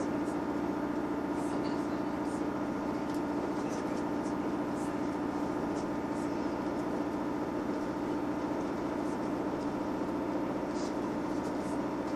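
Inside a Class 158 diesel multiple unit running at speed: the underfloor diesel engine and the wheels on the rails make a steady drone. Faint short high ticks are scattered through it.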